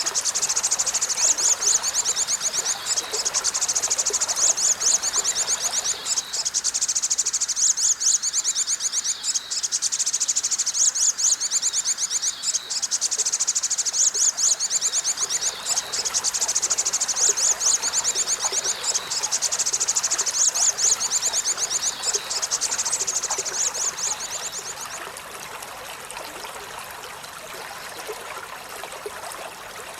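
Olive-backed sunbird singing: rapid, high-pitched trilling phrases in quick succession. They stop about 25 seconds in, leaving a faint trickle of running water behind.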